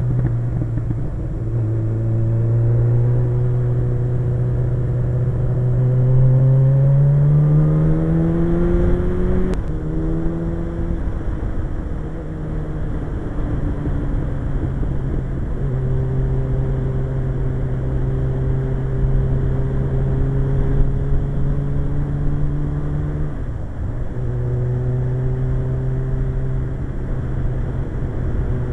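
Suzuki GSX-R 1100 motorcycle's inline-four engine running under way, with a low wind rumble. The engine note rises steadily for several seconds as it accelerates, drops at a gear change about ten seconds in, then holds steady at cruising speed, dipping briefly later on.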